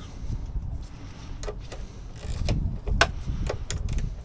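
Hand ratchet wrench clicking in short irregular runs, a handful of sharp ticks while a bolt is worked, over low handling rumble.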